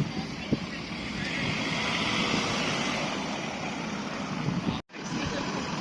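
Car engine and road noise, a steady rumble with a hiss that swells from about a second in, broken by a brief gap of silence near the end.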